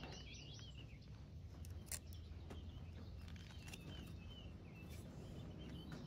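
Birds chirping faintly in short, repeated warbling phrases, with a couple of light clicks about two seconds in.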